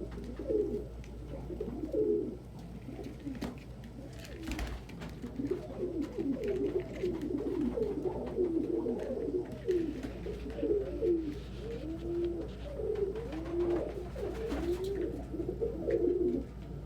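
Several domestic pigeons cooing over one another, with overlapping coos throughout, as cock birds squabble over nest boxes. A few sharp taps or flaps break in now and then.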